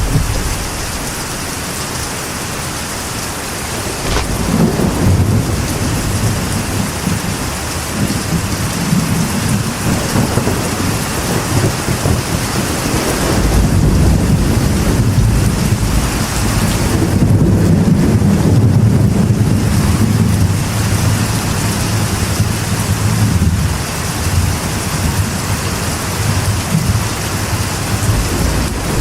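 Steady rain drumming on a metal roof, with thunder rumbling low and long underneath, swelling a few seconds in and loudest past the middle.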